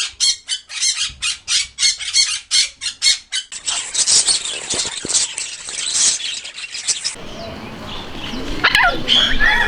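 A string of animal sound effects: about four short, sharp calls a second for the first three and a half seconds, then a stretch of hissing noise, then a rooster beginning to crow near the end.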